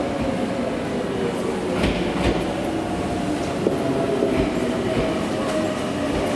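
Tokyu 1000 series electric train running, a steady motor hum under a rumble of wheels, with a few sharp clicks from the wheels passing over rail joints.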